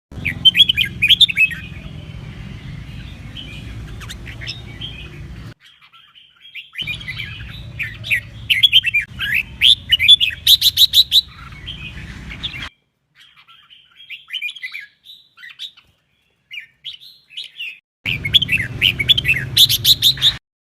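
Red-whiskered bulbul singing quick, sweeping warbled phrases over a steady low hum, in several stretches that cut off abruptly into silence.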